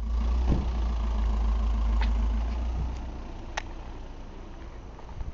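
Taxi's car engine running at the kerb, then pulling away, its low rumble fading after about two and a half seconds. A short click sounds near the end.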